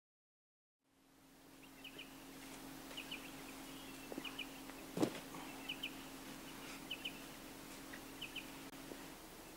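After about a second of silence, outdoor ambience fades in: a bird repeats a short, high double chirp about once every second or so over a steady low hum. A sharp click sounds about five seconds in.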